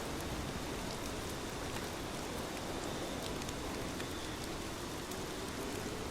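Heavy rain falling steadily, with scattered sharp drop hits standing out from the even hiss.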